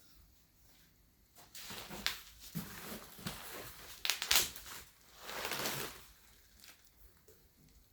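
Packaging around a new exhaust muffler being crinkled and handled: quiet at first, then from about a second and a half in several seconds of irregular rustling and crackling with a few sharp clicks, loudest about four seconds in, fading out near the end.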